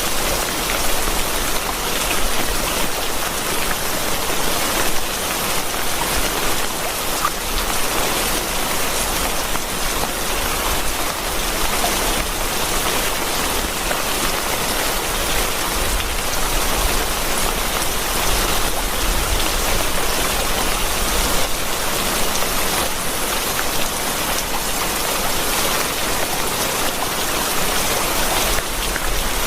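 Steady rain falling, a dense even hiss of drops on surfaces with many small individual drop ticks.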